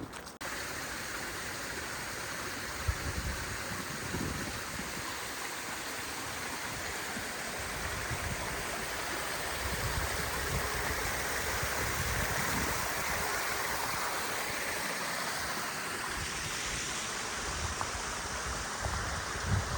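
A creek rushing over rocks, a steady even rush of water that swells slightly midway, with a few low thumps.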